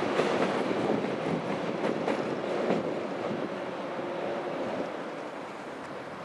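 ICE high-speed train rolling over the points and rail joints, its wheels clacking a few times in the first three seconds. The rumble grows gradually quieter.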